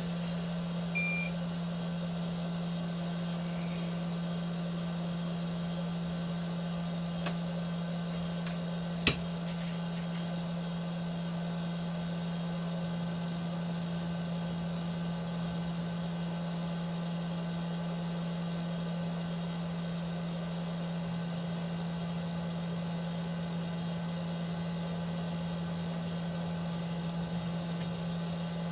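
Steady low electrical hum from running workbench equipment, with a short high beep about a second in and a single sharp click around nine seconds.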